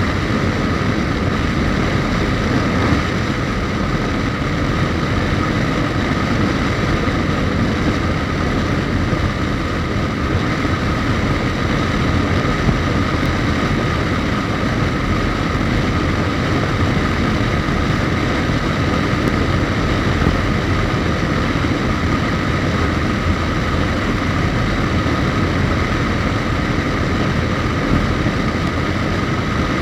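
Suzuki GSX1250FA motorcycle under way at a steady speed, its inline-four engine running evenly under a constant rush of road and wind noise.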